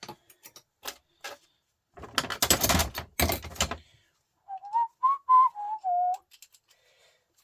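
Small metal parts of a truck starter motor clinking and clattering against each other as they are handled and dropped, in a dense burst about two seconds in. A few seconds in, a person whistles a short tune of about five notes.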